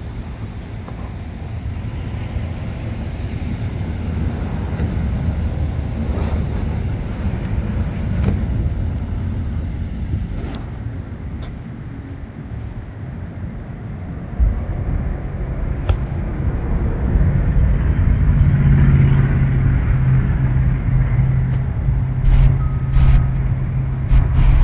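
Heavy diesel engine running with a steady low rumble. It gets louder about two-thirds of the way through, and a few sharp knocks come near the end.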